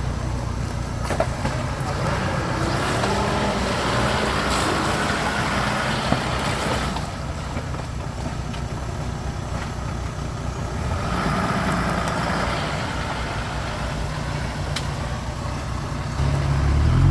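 Off-road 4x4 vehicle's engine running, swelling louder twice for a few seconds, with a louder surge near the end.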